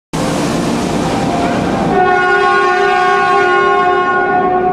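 500 Series Shinkansen (the Hello Kitty Shinkansen) pulling into a station platform with a rushing noise. From about two seconds in, a steady horn sounds over it until the end.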